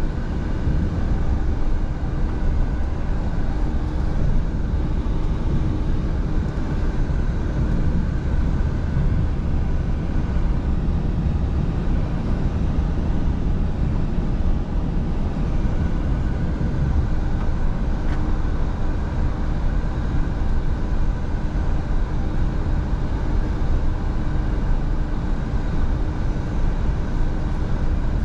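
Scania V8 truck running at a steady cruise: a constant low engine drone with road and tyre noise, and a few steady tones above it.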